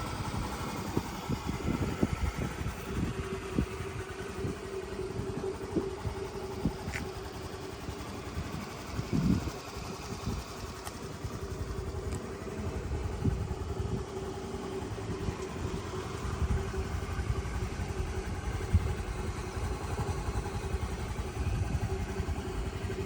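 Honda Today scooter with a swapped-in 102 cc Honda Spacy 100 engine idling steadily, a low, even running note with no revving.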